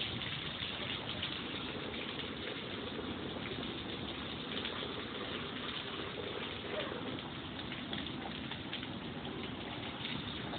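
Steady hurricane rain falling, a constant even hiss with faint scattered patters.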